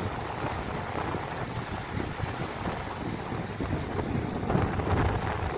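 Sea waves washing on the shore, with wind buffeting the microphone; a wave surges a little louder about five seconds in.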